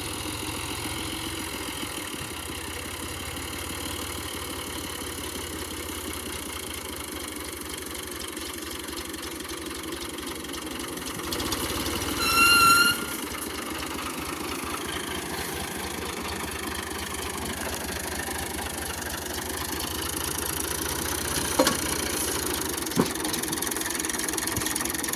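A tractor's diesel engine running steadily, growing louder about eleven seconds in. About halfway through, a short, loud horn blast sounds once, and two sharp clicks come near the end.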